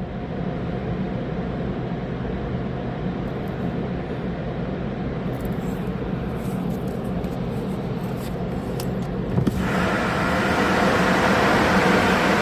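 Steady hum and hiss of machinery heard from inside a car in a car wash tunnel. About nine and a half seconds in, a louder, brighter hiss starts and holds.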